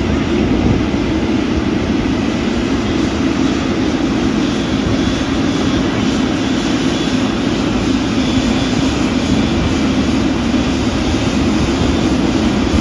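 Airliner engines running with a loud, steady noise that holds level without rising or falling.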